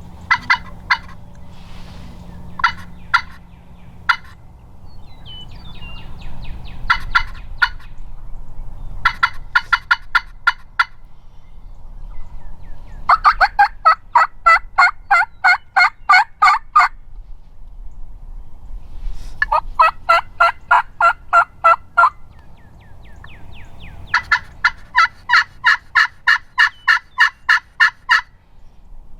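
Turkey calling in runs of short, evenly spaced notes, about four a second. The runs are brief at first and grow longer, with the longest near the middle and end.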